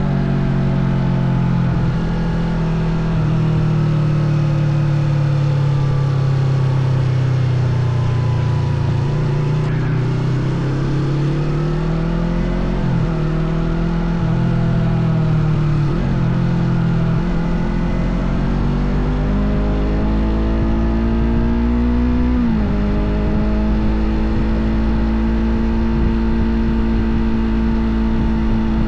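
Small Yamaha parallel-twin sport-bike engine running under way, its pitch sliding down and climbing again several times as the rider works the throttle. About three-quarters of the way through there is a sharp rise in revs, then a steady higher note.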